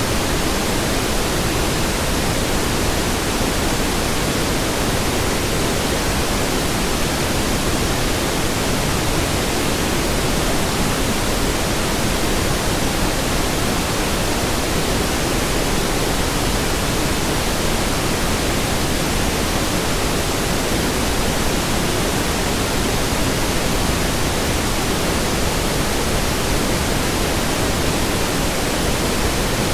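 Steady pink noise: an even, unchanging hiss spread across all pitches, fuller in the low end than white noise.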